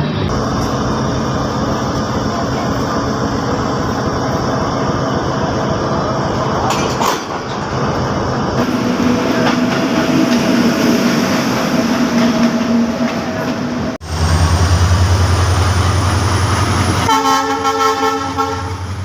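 Express train running on the track with a steady loud rumble; its horn sounds near the end as a sustained chord.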